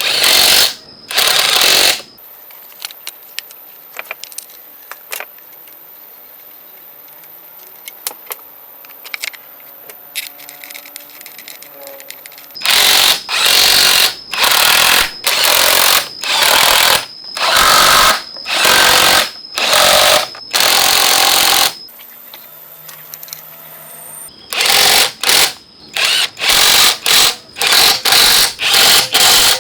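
A power tool run in repeated short bursts of about a second each, harsh and loud with a steady high whine in every burst. The bursts come in three runs, a quiet stretch of faint clicks and handling from about 2 seconds to about 13 seconds, and another short pause before the last run.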